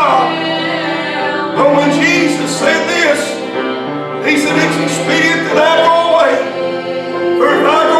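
Gospel singing with instrumental accompaniment: a voice sings long, gliding notes over steady held low notes.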